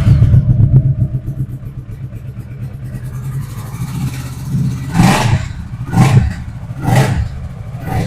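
Kawasaki Versys motorcycle engine idling, then revved in three short blips about a second apart in the second half.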